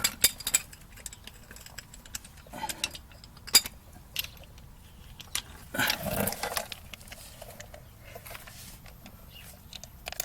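Scattered metallic clinks and taps of hand tools and hardware being handled while a shock-mount bolt and washer are fitted, with a short scraping rustle about six seconds in.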